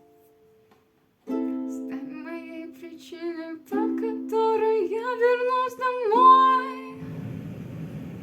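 After about a second of near silence, ukulele chords ring out and a voice sings a short melody that slides down in pitch about six seconds in. Near the end, plucked ukulele notes continue over a steady hiss.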